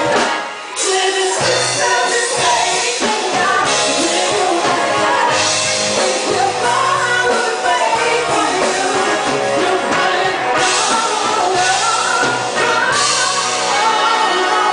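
Band playing a rock arrangement with a lead singer.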